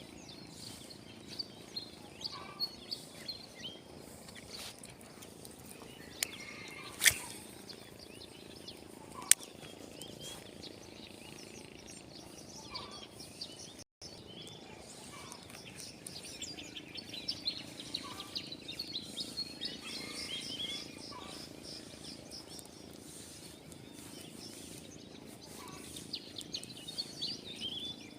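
Small birds chirping and twittering over a steady outdoor background, busiest in the second half with a run of quick trilled notes. Two sharp clicks stand out about seven and nine seconds in, the loudest sounds here.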